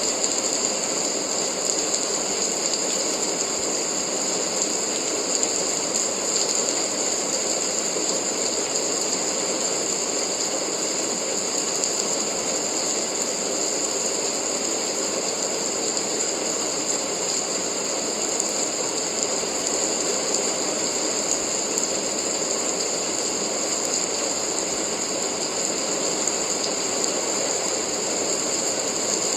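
Steady rain, a dense even wash of noise that holds unchanged throughout.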